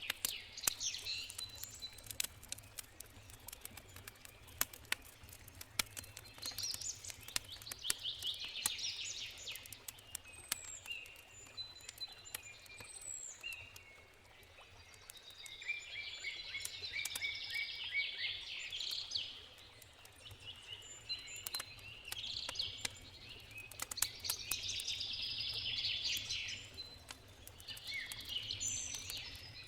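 Wood campfire crackling, with irregular sharp pops throughout, while songbirds sing in repeated bursts.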